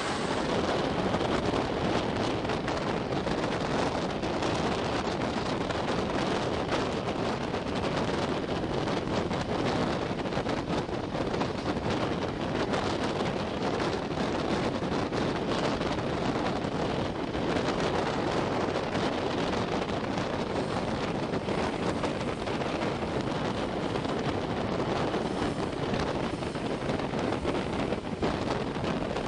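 Wind rushing over the microphone at an open window of a moving passenger train, mixed with the train's steady running noise.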